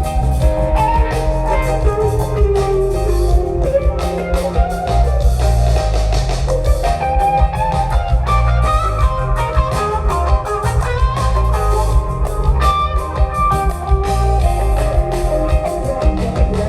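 Live rock band jamming on a bluesy groove: electric guitar playing wandering lead lines over bass and drum kit.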